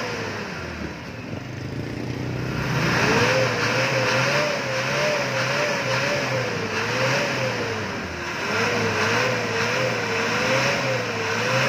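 Mitsubishi Adventure engine free-revved at standstill, heard from behind the vehicle at the exhaust: the revs swing up and down over and over, easing off about a second in and then blipped repeatedly again from about three seconds on.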